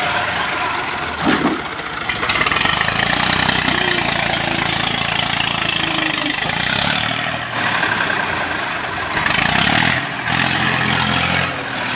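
Tractor engine running, its speed and load rising and falling in stages, with a short louder burst about a second in.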